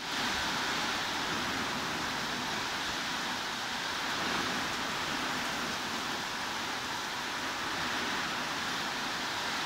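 Heavy rain falling steadily, a dense even hiss with no separate drops standing out.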